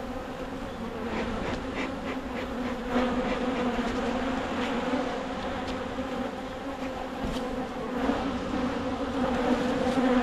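Many honeybees buzzing in a steady, dense hum around an open hive, with a few faint ticks scattered through it. The bees are agitated and defending their colony.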